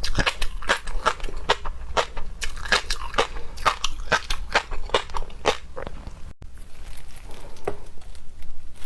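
Close-miked crunching and crackling of seafood being bitten and chewed: rapid sharp crunches that thin out after a brief dropout about six seconds in.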